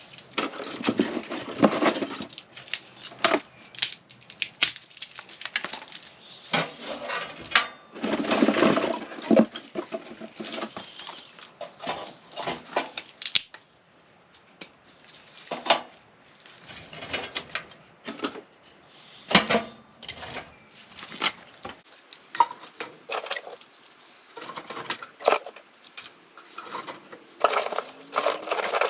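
Kindling and fatwood being handled and laid into a metal wood stove: irregular clanks and knocks of wood on metal, with bursts of rustling.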